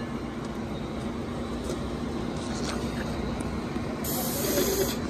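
Amtrak Amfleet passenger cars rolling past along the platform, a steady rumble of wheels on rail. A short hiss comes in about four seconds in.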